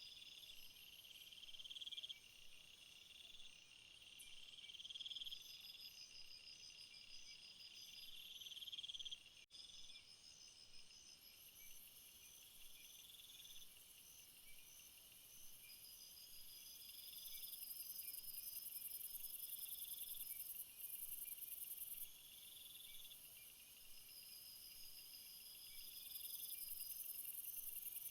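Faint insect chorus: several high-pitched pulsing trills overlap and repeat at regular intervals, with a higher, hiss-like buzz that swells in the second half.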